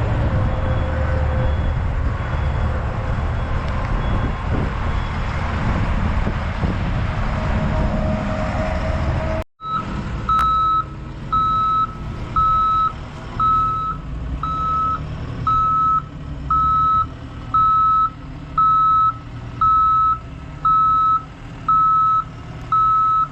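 A heavy machine's engine running steadily. After a cut about nine and a half seconds in, a reversing alarm beeps evenly, about once every three-quarters of a second, over the engine.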